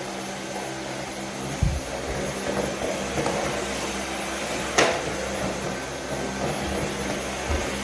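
Steady mechanical drone with a low hum, like a semi-truck running as heard inside its cab. There are a couple of low thumps and one sharp click about five seconds in.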